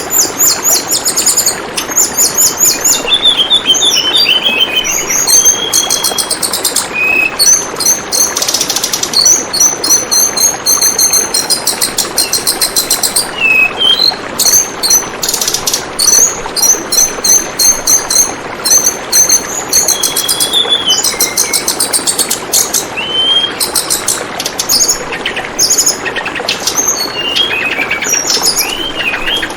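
Tledekan bambu birds calling in quick, high, repeated chirps and trills, one after another, over the steady rush of flowing water.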